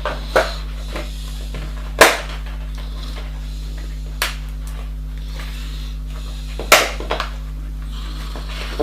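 A handful of sharp clicks and knocks of hard objects being handled, the loudest about two seconds in and a quick cluster of three near the end, over a steady low electrical hum.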